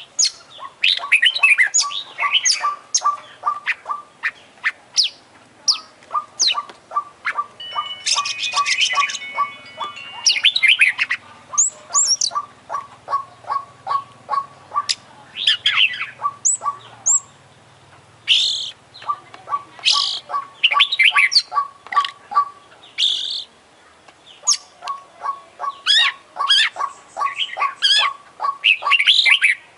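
Oriental magpie-robin (kacer) singing continuously, a long varied song full of mimicked notes ('isian'). Rapid trains of short low ticking notes alternate with high chirps, sweeping whistles and harsh squawks.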